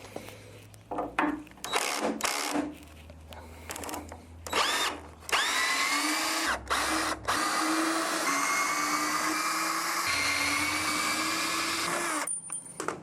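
Power drill running in a few short bursts, then spinning up and running steadily for about seven seconds before winding down, as during work on shimming a workbench's sagging middle section.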